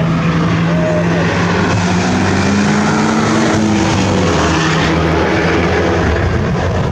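Car engines running at speed on a race circuit. A steady engine note rises in pitch over the first few seconds, then drops a little past the middle, as a car accelerates and then lifts off.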